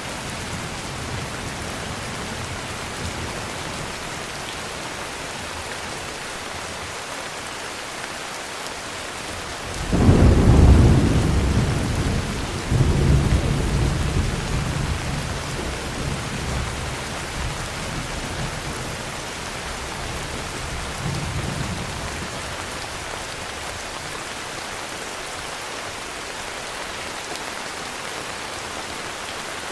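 Heavy rain falling steadily, with a sudden thunderclap about a third of the way in. It rumbles on in a second swell and rolls away over roughly ten seconds.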